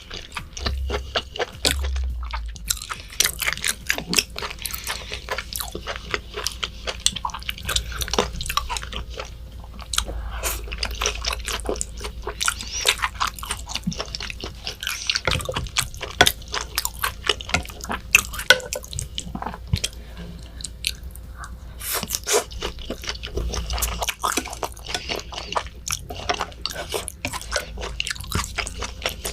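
Close-miked eating of raw beef and rice: continuous chewing and mouth sounds made of many quick, irregular clicks.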